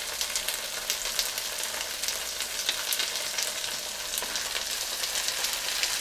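Spaghetti frying in melted butter in a wok and meatballs frying in a skillet, sizzling steadily with many fine crackles.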